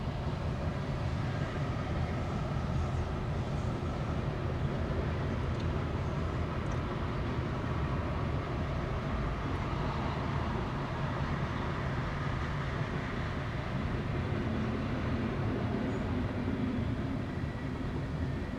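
Freight cars of a passing CSX manifest train rolling by at a grade crossing: a steady rumble with the clatter of steel wheels on the rail joints.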